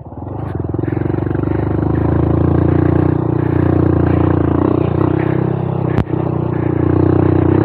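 Honda Monkey 125's single-cylinder four-stroke engine running steadily under load on a trail climb, dipping briefly at first and then picking back up. A single sharp knock sounds about six seconds in.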